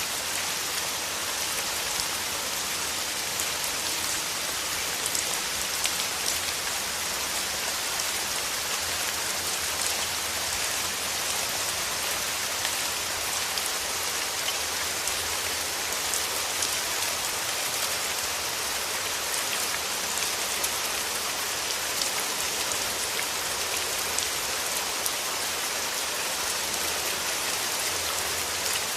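Steady rain falling through forest trees: a dense hiss of drops on leaves with many small drop ticks.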